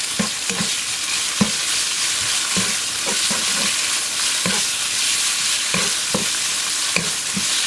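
Sliced beef and diced carrot sizzling in hot oil in a wok, stir-fried with a wooden spatula that knocks and scrapes against the pan every half second or so.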